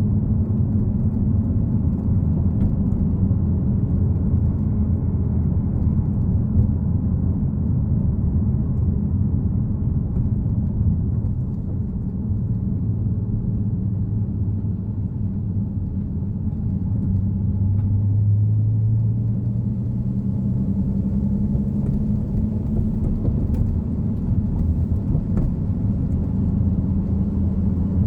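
Nissan Fairlady Z (Z34)'s 3.7-litre V6 engine and road noise while driving at a steady pace: a continuous low drone whose pitch shifts slightly a little past the middle.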